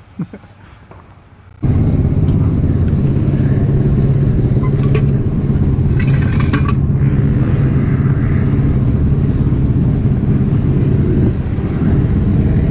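A loud, steady rumble with wind buffeting on a chin-mounted helmet camera, as if riding an electric motocross bike, starts abruptly about two seconds in. A brief clatter of clicks comes about six seconds in.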